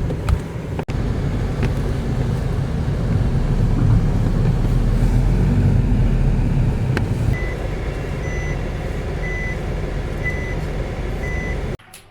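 Vehicle running with a steady low rumble. After about seven seconds a short electronic beep starts repeating about once a second, typical of a reverse-gear warning, and everything cuts off suddenly near the end.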